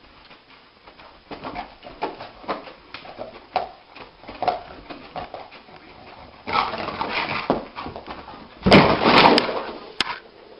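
A dog making a run of short whimpering cries, then two longer, louder, rougher outbursts, the louder one near the end.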